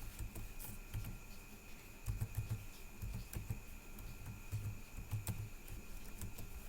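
Faint, irregular clicks and taps of a computer keyboard and mouse, as login details are typed in, over a steady faint high-pitched whine.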